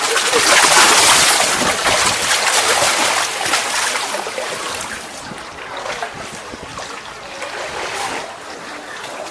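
Sea water splashing and rushing along the hull of a moving tour boat, louder for the first few seconds, then easing off.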